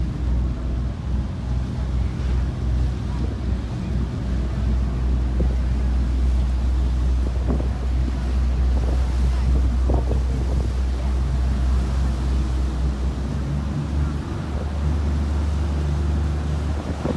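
Cruise boat's engine droning low and steady, with wind buffeting the microphone and the sound of water along the boat.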